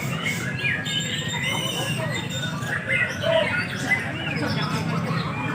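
Several caged songbirds singing at once, a dense overlapping run of whistled phrases, chirps and pitch glides, over a steady low hum.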